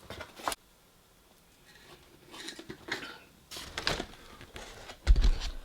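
Takeaway food packaging being handled: scattered clicks and rustles of bags and containers, then a heavy thud about five seconds in, the loudest sound.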